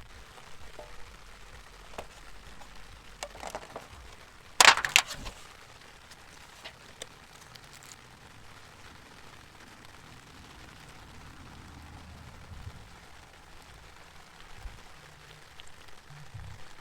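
Steady hiss of light rain, with a few sharp knocks and, about five seconds in, a quick cluster of two or three loud sharp knocks.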